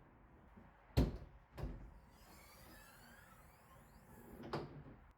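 Three knocks, the first about a second in the loudest, a smaller one just after it and another near the end, with a faint squeaky glide in between.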